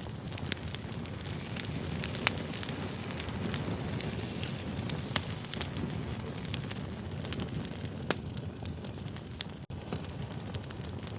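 Burning firewood crackling: a steady low rush of flame with irregular sharp pops, a few of them standing out, and a momentary cut-out in the sound near the end.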